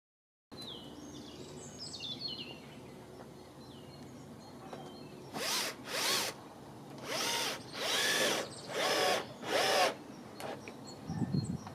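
Power drill run in six short bursts, its motor pitch rising and falling with each squeeze of the trigger. Birds chirp in the first few seconds.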